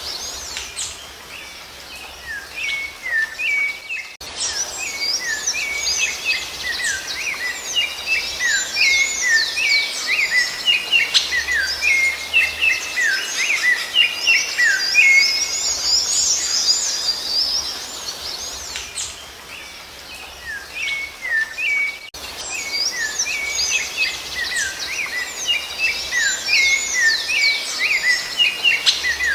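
Rufous-bellied thrush song: long bouts of quick, fluty, gliding notes, thinning briefly twice before picking up again.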